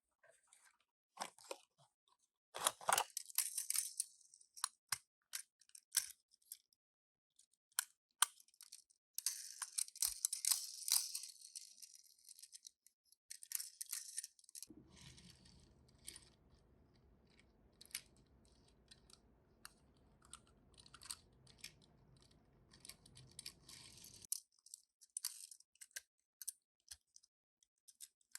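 Toy packaging being handled and opened: crinkling, tearing plastic and cardboard with scattered small clicks and taps. A faint low hum comes in for several seconds in the middle.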